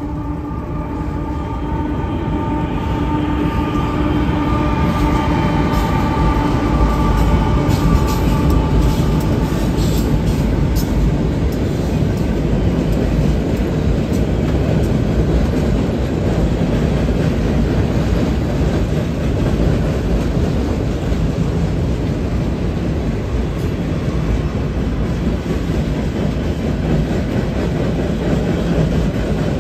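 Freight train of loaded flatcars rolling across a steel trestle: a loud, steady rumble with wheel clatter and scattered clanks, building over the first few seconds. A few steady tones fade out within the first ten seconds or so.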